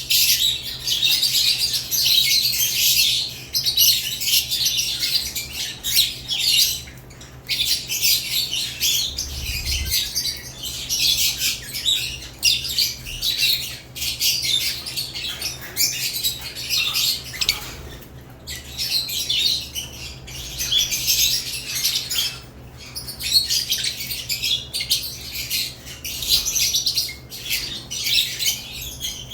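A group of caged lovebirds chattering: dense, rapid high-pitched chirps and squawks in near-continuous runs with brief pauses.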